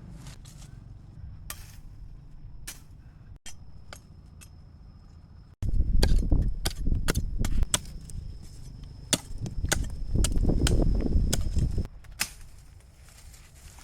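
A series of sharp knocks and chopping impacts. A louder, low rumbling stretch with rapid knocks runs through the middle, starting abruptly and stopping about two seconds before the end.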